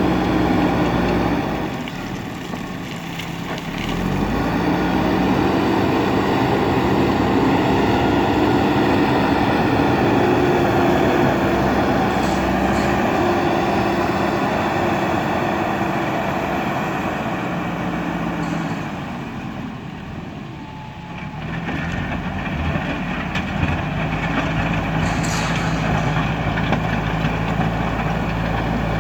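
JCB backhoe loader's diesel engine running hard under load as it works, with a steady pitched hum that eases off twice, briefly near the start and again about two-thirds of the way through, before picking back up.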